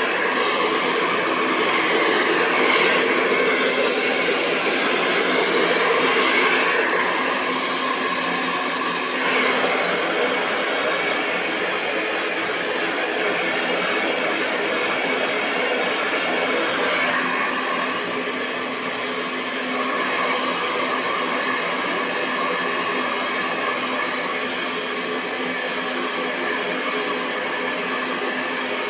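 Hair dryer running continuously: a steady rush of air over a constant low tone, its sound shifting slightly during the first ten seconds and again around seventeen seconds in.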